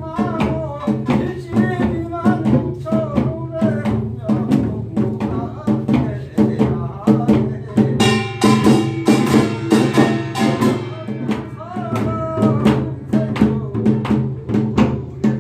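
Korean folk percussion music of the kind played for jisinbalbgi: drums beating a steady, quick rhythm under a wavering melody line, with a brighter, ringing passage about eight seconds in.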